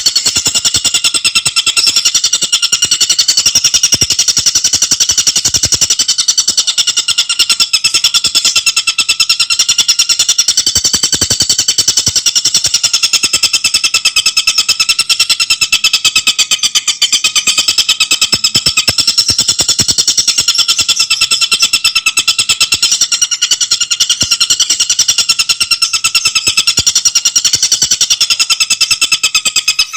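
Tengkek buto bird song: a fast, unbroken rattling trill of high, rapidly repeated notes that never pauses.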